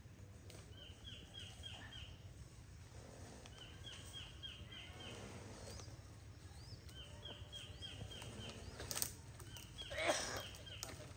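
A bird singing a repeated phrase of five or six quick, falling, high notes, one phrase every few seconds. A sharp click comes about nine seconds in, and a short louder noise follows about a second later.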